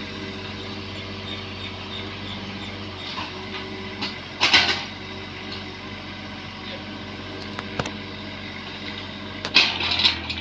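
Bobcat 322 mini excavator's diesel engine running steadily. Two loud, short bursts of noise break over it, about four and a half seconds in and again near the end.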